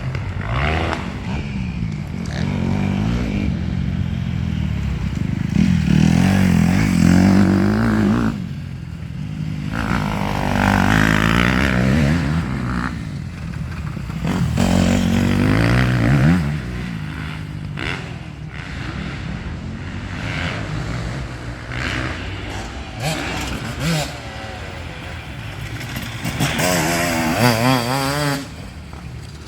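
Motocross motorcycle engines revving, their pitch rising and falling as the bikes accelerate and ease off, with several louder surges as bikes pass close by.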